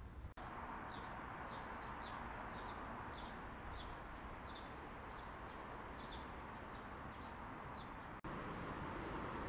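Small bird chirping in short downward-sweeping calls, about two a second, over a steady wash of city background noise. Near the end the chirping stops and the background noise becomes louder.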